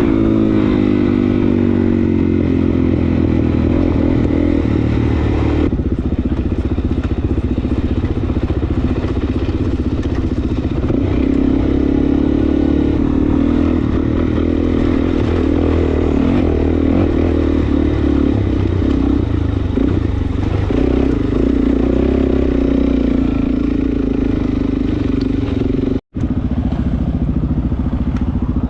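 Suzuki DR-Z400S single-cylinder four-stroke engine running under way through an aftermarket exhaust, on a jet kit and airbox mod. The pitch rises and falls as the throttle opens and closes. The sound drops out for an instant near the end.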